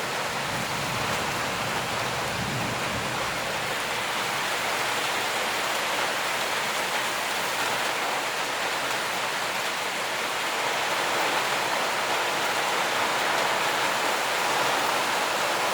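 Steady downpour of storm rain, an even hiss of rain with no let-up.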